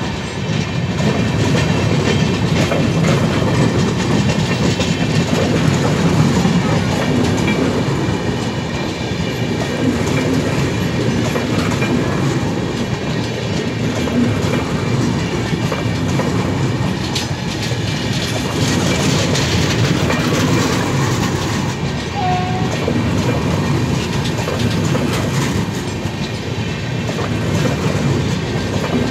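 Shramjeevi Express passenger coaches rolling past close by. It is a loud, steady rush of steel wheels on rails with a rhythmic clickety-clack running through it.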